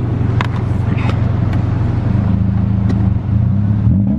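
Subaru Impreza 2.5 RS flat-four engine running through a muffler-deleted exhaust, a loud steady drone. The note steps up in pitch about two seconds in, dips briefly near three seconds, then climbs again as the car accelerates near the end.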